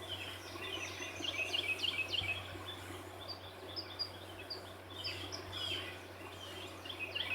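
Songbirds chirping and twittering in quick runs of short high notes that come in clusters, with a faint steady low hum underneath.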